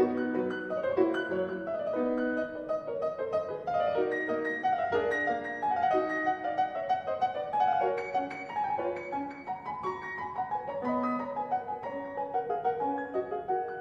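Solo piano playing classical music: a continuous stream of quick, short notes.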